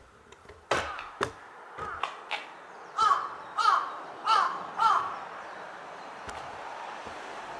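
A few sharp knocks, then a bird calling four times in quick succession, each call a short arched note.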